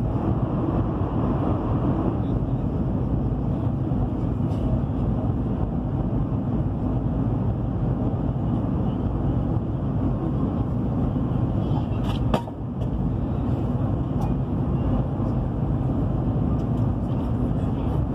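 Steady low rumble of a high-speed train running at speed, heard from inside the passenger car. A single sharp click about twelve seconds in, with a brief dip in the noise just after it.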